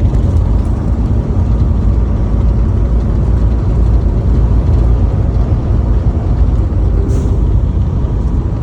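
Steady low rumble of road and engine noise from a moving vehicle.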